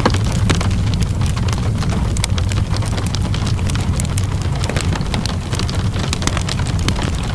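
Wood fire crackling with frequent sharp pops and snaps over a steady wash of rainfall, with a constant low rumble underneath.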